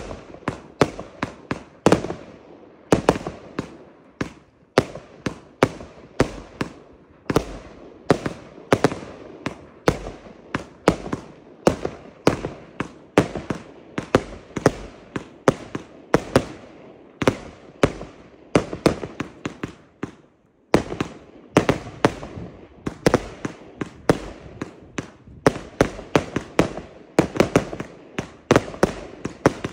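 Consumer firework cakes (compound batteries) firing: a rapid, uneven string of launch shots and bursts, several a second, with a short pause about twenty seconds in before the shots resume.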